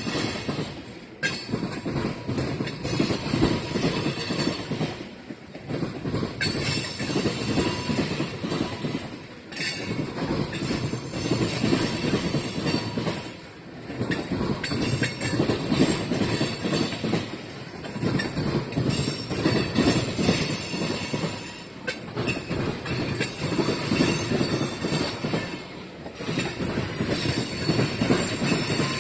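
Freight train cars rolling past at speed, wheels clattering over the rails with a high hiss and squeal. The loudness swells and dips about every four seconds as the cars go by.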